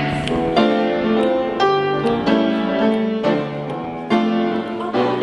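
Piano music: a run of chords, each struck fresh every half second to a second and left ringing.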